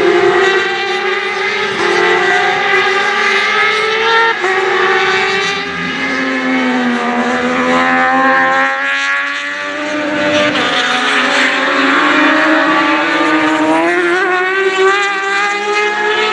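Several racing motorcycles at full race pace, their high-revving engines overlapping, the pitch dropping and climbing again through gear changes as they brake and accelerate past.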